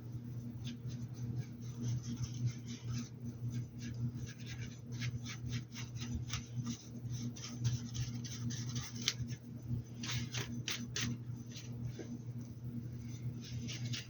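Paintbrush working over a fabric hat in short, quick scratchy strokes and dabs, in runs, over a steady low electrical hum.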